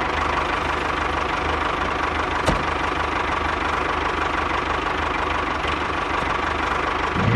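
Engine running steadily at an even speed, with a fast, regular low pulsing. A single short click comes about two and a half seconds in.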